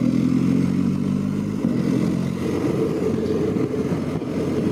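BMW GS motorcycle's boxer-twin engine running at a steady pitch on the move, with wind and road noise. About two seconds in the steady engine tone breaks up into a rougher, less even rumble.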